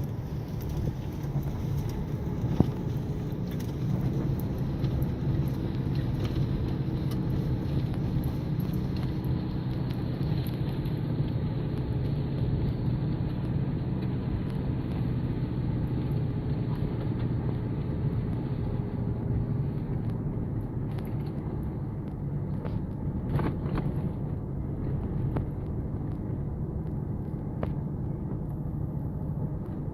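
A vehicle's engine running steadily while driving a dirt track, with occasional sharp knocks and rattles.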